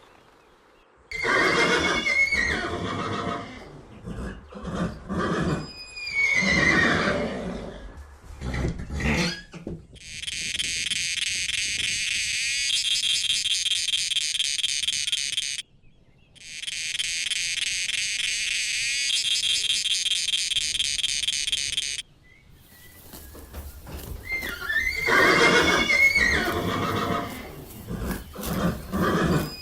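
Horses neighing and whinnying, several calls with falling pitch, the loudest near the end. In the middle, two stretches of about five seconds each of a steady, high-pitched rhythmic buzzing.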